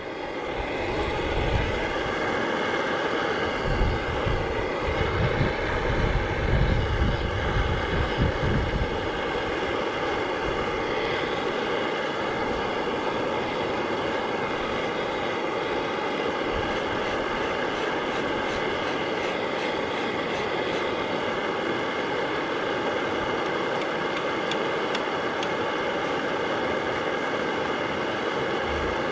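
Two-stroke McDonald PB 'super diesel' engine, rated 9/11 hp, running steadily at an even speed.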